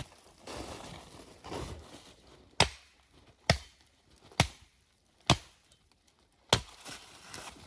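Five sharp chops into wood, evenly spaced about a second apart, after a soft rustle.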